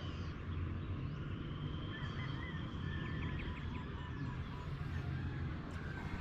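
Outdoor ambience of faint bird calls, some long held high notes and some short chirps, over a steady low rumble.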